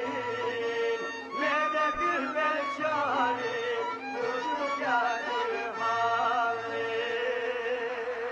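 Albanian folk music: a violin-like melody with sliding, ornamented notes over a steady held note.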